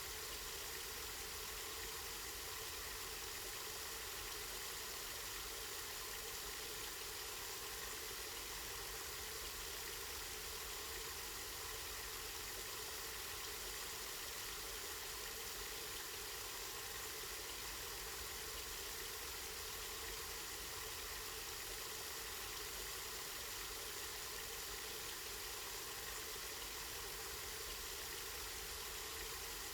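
Spring water running steadily, an even hiss that does not change, over a faint low rumble.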